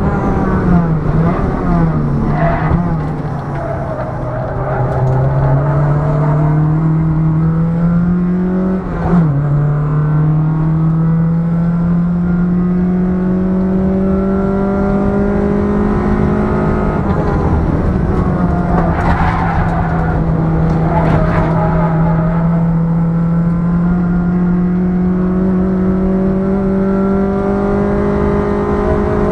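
Ford Fiesta Mk5 Zetec S four-cylinder engine driven hard on a race circuit. Its note climbs slowly under load and drops suddenly at a gear change about nine seconds in, then climbs, eases off and rises again. Two short bursts of noise come about two-thirds of the way through.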